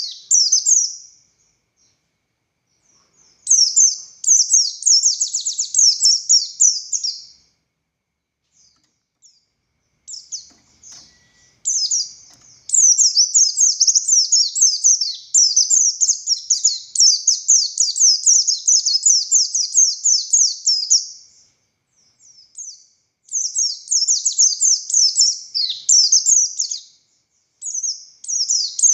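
A white-eye (pleci buxtoni) singing long, rapid, high-pitched chattering phrases in repeated bursts with short gaps, the longest lasting about nine seconds.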